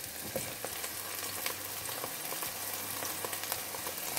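Aubergine cubes sizzling as they fry in hot olive oil in a skillet, with scattered small pops as more pieces are dropped into the pan.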